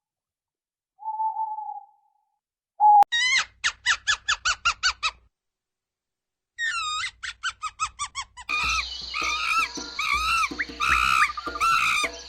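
High-pitched animal calls: one short call about a second in, then quick runs of squeaky falling chirps, about five a second. From the last few seconds they thicken into many overlapping chirps over a steady background.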